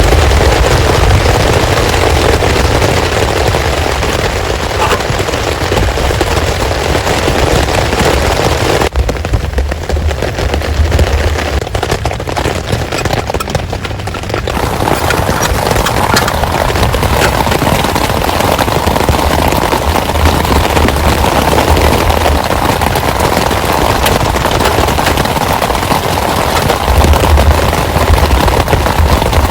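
Heavy rain drumming steadily, with deep rumbling underneath; the sound goes duller for several seconds about nine seconds in.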